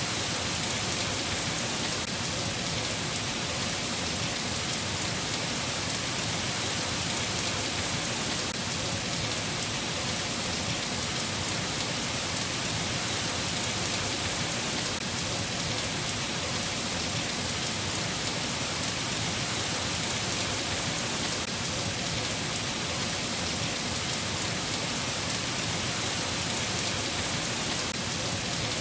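Steady rain falling: an even, unbroken hiss of drops, with no thunder.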